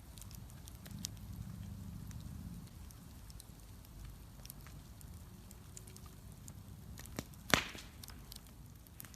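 Bonfire burning with a low rumble and scattered crackles, and one loud sharp pop about seven and a half seconds in.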